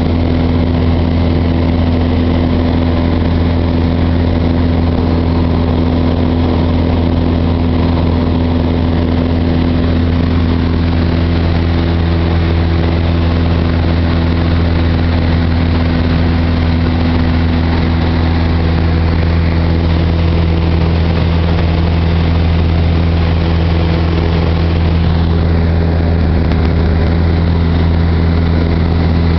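Cessna 172's piston engine and propeller droning steadily in flight, a constant low hum with no change in power.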